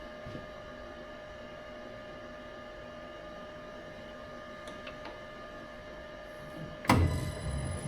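Machine tool in a workshop running with a steady whine. A sudden loud clunk and clatter comes near the end.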